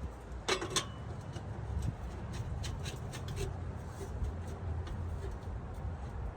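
Metal clicks and scrapes from a steel exhaust pipe section being shoved and worked into place. The loudest clatter comes about half a second in, followed by a run of lighter clicks, over a low steady rumble.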